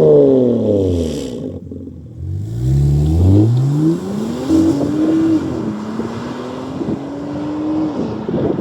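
BMW M3 F80's twin-turbo straight-six through an equal-length exhaust: revs fall off throttle, then climb steeply under acceleration about two seconds in and settle into a steady lower note.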